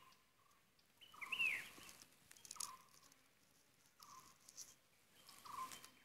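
A bird calling a short, faint note about every second and a half, with a brighter chirp that rises and falls about a second in, over light rustling.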